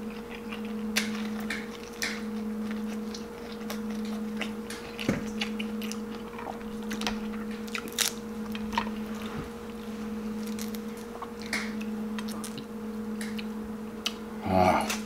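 Close-up mouth sounds of chewing Dungeness crab, with scattered small cracks and crackles as the brittle shell is broken and the meat picked out by hand. A steady low hum runs underneath, and a short hum of the voice comes near the end.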